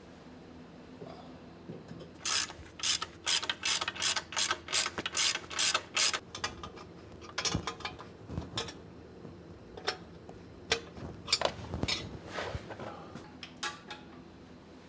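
Ratchet wrench clicking in a run of even strokes, about three a second, then a few irregular clicks as the strokes slow and stop.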